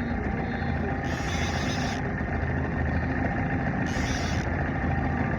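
Boat motor running steadily at trolling speed, a low even hum. A brighter hiss rises over it twice, about a second in and again near four seconds.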